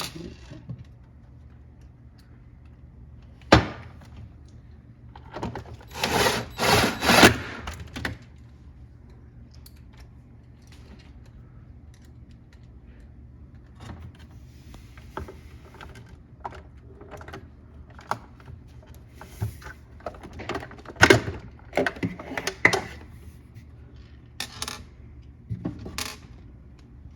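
Knocks, clicks and rattling from hands-on work at a refrigerator's ice dispenser: a single sharp knock about three and a half seconds in, a couple of seconds of rattling around six to eight seconds, and more clatter later.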